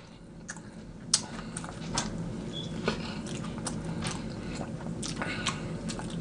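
A person chewing hot chicken wings close to the microphone: irregular wet mouth clicks and smacks.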